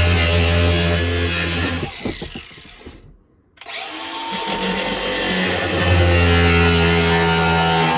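Mini angle grinder with a metal cutting disc running, cutting a boiler flue pipe to length. It winds down about two seconds in, stops briefly, and starts again at about three and a half seconds, building back to full speed.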